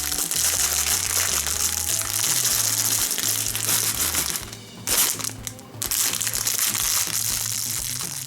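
Crinkling and crushing of a wrapper being handled, stopping and starting again about halfway through, over background music with a steady bass line.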